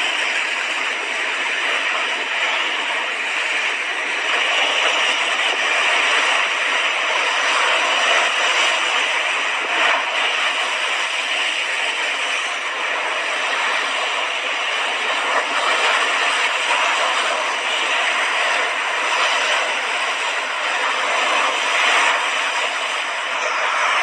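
Mediterranean sea waves washing onto the shore, a continuous rushing hiss that swells and eases only slightly.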